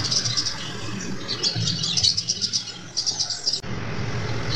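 A small bird chirping in quick clusters of high repeated notes, over a low hum at times.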